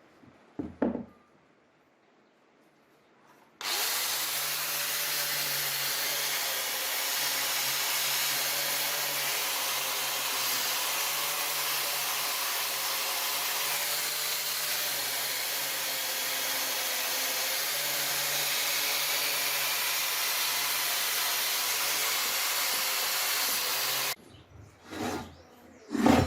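A power tool starts about three and a half seconds in and runs steadily for about twenty seconds, a loud even hiss over a low motor hum, then cuts off suddenly. A single knock comes before it and a few knocks after it.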